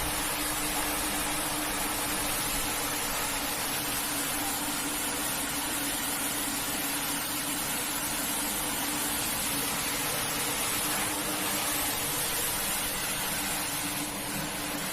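Pressure washer running steadily: a constant motor hum under a continuous hiss of water spray, blasting a carpet clean.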